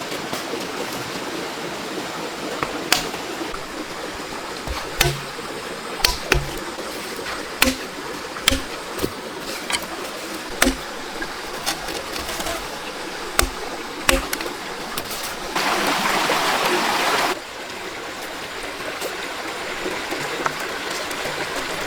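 Steady rushing water noise, with irregular sharp knocks or clicks on top. About three-quarters of the way in, a louder hiss swells for about two seconds and cuts off suddenly.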